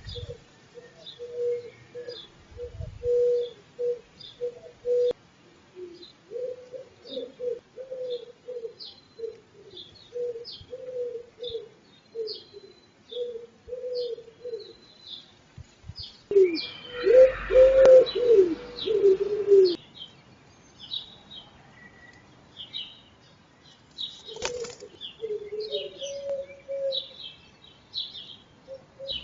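Wood pigeons at the nest giving runs of short, low repeated calls. About halfway through comes a louder flurry of wing flapping mixed with the calls. Quick high chirps from a small songbird run throughout.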